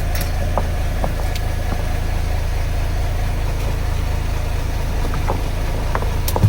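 A fishing boat's engine running steadily with a low, even hum, and a few faint clicks on top.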